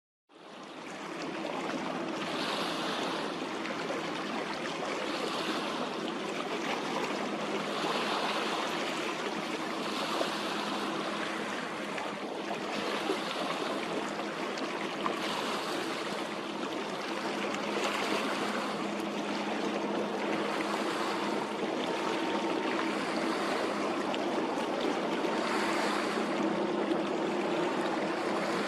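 Sea water rushing and splashing, swelling every two to three seconds, over a steady low engine hum from a boat.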